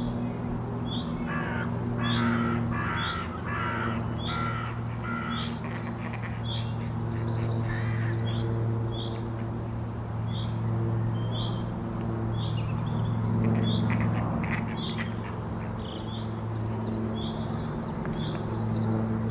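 Birds calling outdoors. A harsh, caw-like call repeats about six times in quick succession in the first few seconds, over short high chirps that recur every second or so throughout, with a steady low hum underneath.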